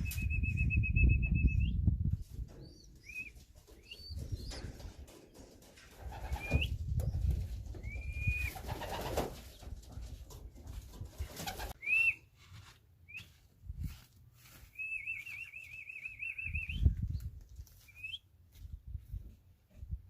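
Racing pigeons flapping their wings in bursts, with short high whistled chirps and two longer wavering trilled whistles, one at the start and one near the end.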